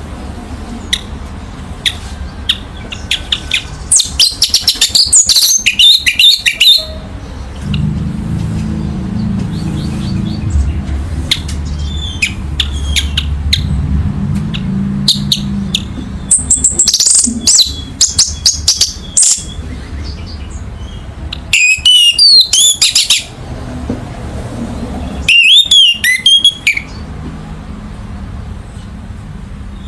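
Orange-headed thrush (anis merah) singing four loud bursts of rapid, varied high-pitched song, each a couple of seconds long, over a steady low hum.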